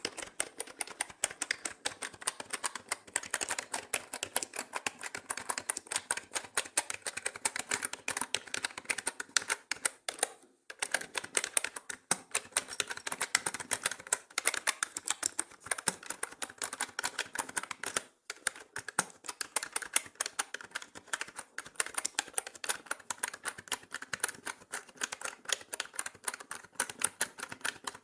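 Mechanical keyboard keys being typed on in a fast, continuous run of clicks, with short pauses about ten and eighteen seconds in.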